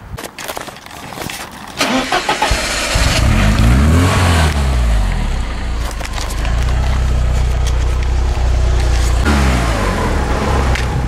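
Porsche 944's four-cylinder engine starting: it catches about three seconds in and flares up in revs, then settles into a steady idle. It revs briefly once more near the end.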